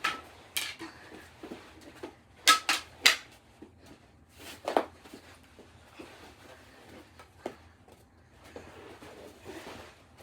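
Mini hockey sticks and a ball in a knee hockey game: irregular sharp clacks and knocks as sticks strike the ball and each other, with three quick clacks about two and a half seconds in and lighter scuffing between.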